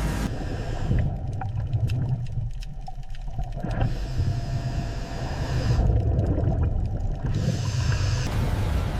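Low, steady rumble, with a hiss over it that cuts in and out abruptly several times.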